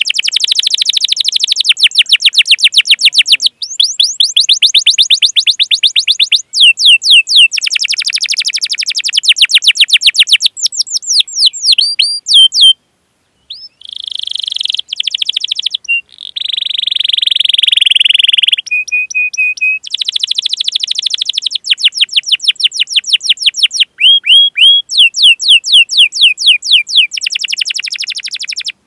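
Domestic canary singing a long song of fast trills, runs of rapidly repeated rising chirp notes (rolls). There is a brief pause about 13 seconds in, then harsher buzzy phrases for a few seconds before the rapid trills resume.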